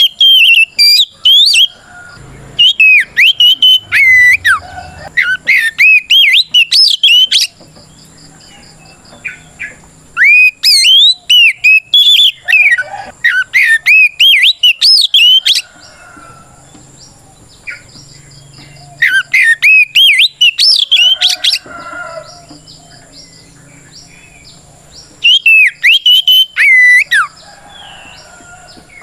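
Oriental magpie-robin (kacer) singing its loud fighting song, a territorial challenge calling out a rival: bouts of rapid, sweeping whistled notes, four of them with pauses of a few seconds between.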